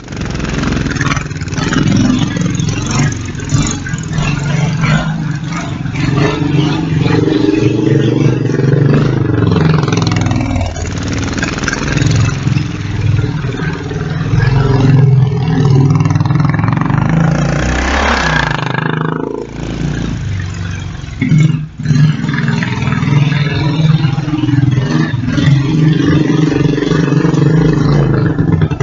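Kawasaki Bayou 300 quad bike's single-cylinder four-stroke engine running loud and steady, its pitch rising and falling with the throttle, briefly easing off a little over two-thirds of the way through.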